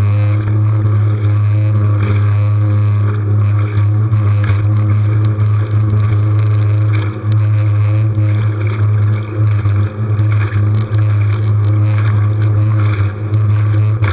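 Small motor on a kayak running steadily at constant speed, a loud low hum over a steady hiss.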